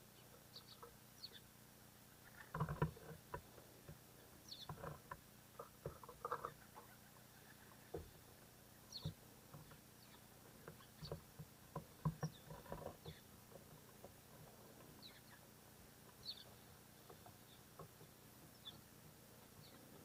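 Faint, short, high bird chirps repeating every second or two, with three clusters of sharp taps and rustles, the loudest about three seconds and twelve seconds in.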